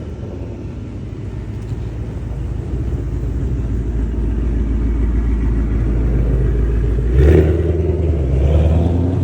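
Ford Mustang engines rumbling as the cars pull away, growing steadily louder, with a sudden hard rev about seven seconds in.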